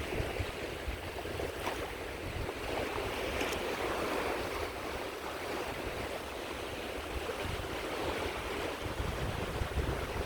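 Small sea waves washing onto a beach in a continuous surf wash that swells a little partway through, with some wind rumble on the microphone.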